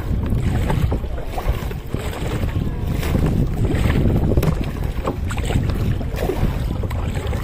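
Wind rumbling on the microphone over water splashing around a kayak, with a few short splashes.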